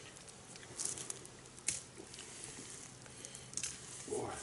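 Wood campfire crackling, with scattered small pops and a few sharper cracks.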